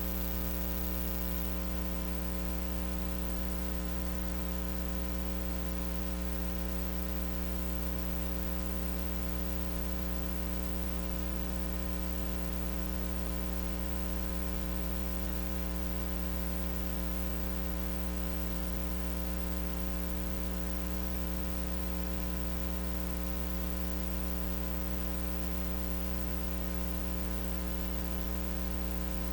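Steady electrical mains hum with a ladder of higher overtones and a light hiss, unchanging throughout. It is the recording chain's own hum with the microphone switched off, so the 3D printer itself is not heard.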